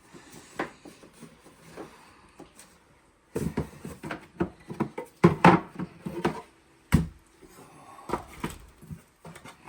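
Wooden beehive parts handled while being unpacked: soft handling noise at first, then, about three seconds in, a run of wooden knocks and clatters, with one sharp knock about seven seconds in and a few more near the end.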